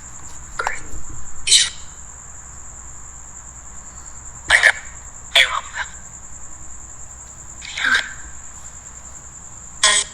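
Necrophonic spirit-box app sending out short, choppy bursts of scanned noise and voice fragments, six in all at uneven gaps, over a steady high chirring of crickets.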